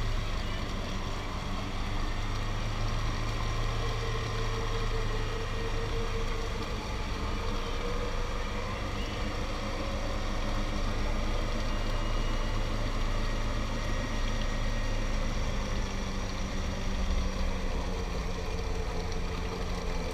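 Lada Niva engine running steadily at low revs, an even drone without revving.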